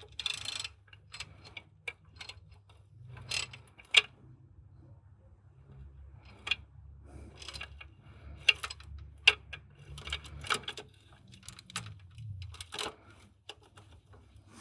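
Scattered metallic clicks and clinks of tools and parts being handled during car repair work, over a faint low hum.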